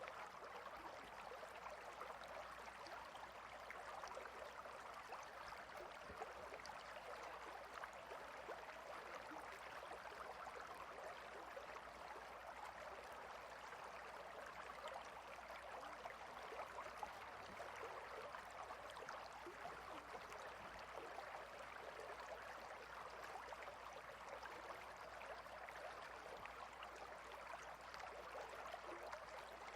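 Clear river water flowing between rocks: a faint, steady babble.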